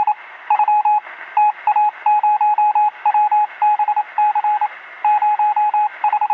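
Morse code beeps: a single beep tone keyed on and off in rapid groups of short and longer beeps, with brief gaps between the groups.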